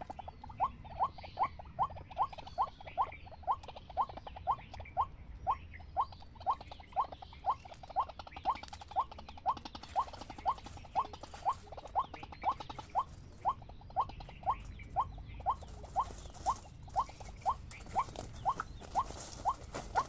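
White-breasted waterhen calling: a short rising note repeated steadily, about twice a second.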